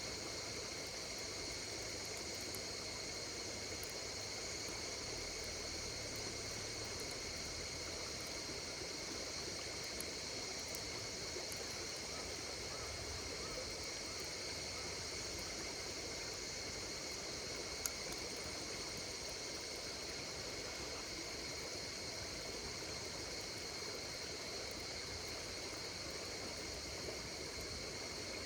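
Steady chorus of insects singing in several high, unbroken bands, over the soft hiss and scattered pops of a wood fire burning, with one sharper crackle about eighteen seconds in.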